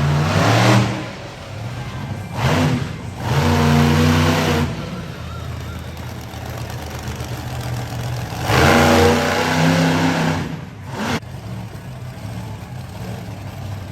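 Monster truck engine revving hard in three bursts: right at the start, from about 2.5 to 4.5 seconds, and from about 8.5 to 10.5 seconds. Between the bursts it runs lower.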